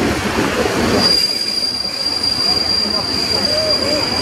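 Passenger train coaches rolling slowly past a station platform: a broad rumble, then about a second in a steady high-pitched squeal from the running gear starts and holds, with a few short squeaks beneath it.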